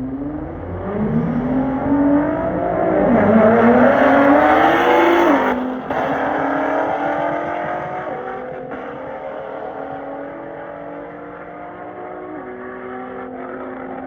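Street car making a hard drag-racing pass, its engine note climbing through the gears with two shifts in the first few seconds. After the last shift the note holds steadier and fades as the car pulls away.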